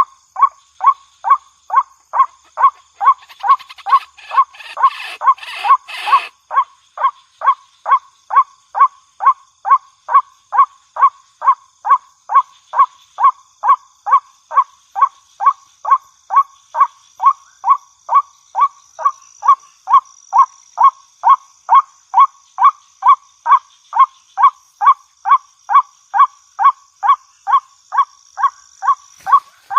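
White-breasted waterhen (ruak-ruak) calling a short note over and over, evenly about twice a second, as a bird-lure recording. From about three to six seconds in, a harsher, noisier chatter overlays the calls, and a faint steady high whine runs behind.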